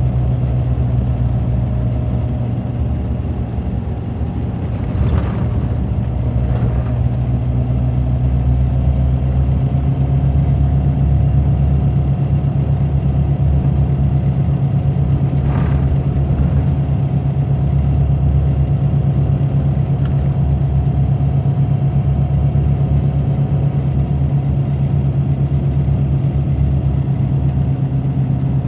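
Scania DC9 five-cylinder diesel engine of a Scania K94 bus running steadily under way, a constant low drone. It dips briefly about four seconds in, and a few short clicks or rattles sound over it.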